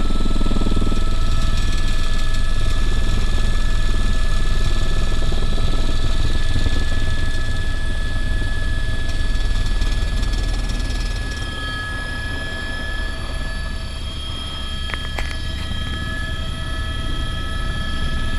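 Helicopter in flight: a steady low rotor rumble with a turbine whine in several steady tones. The overall level dips slightly about eleven seconds in, and a couple of short clicks come near the end.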